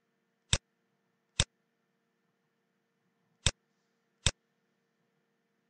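Four single computer mouse clicks, about one to two seconds apart, placing the points of a line being drawn on a diagram, over a faint steady hum.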